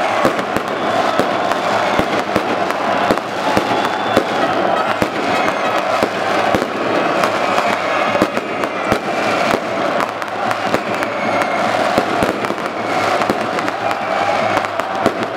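Fireworks and firecrackers going off in rapid, irregular bangs and cracks over a continuous din from a celebrating crowd.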